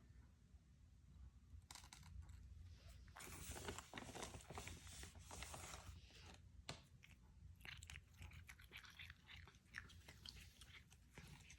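Melanistic Bengal cat chewing and crunching its food, a dense run of sharp crunches starting about two seconds in.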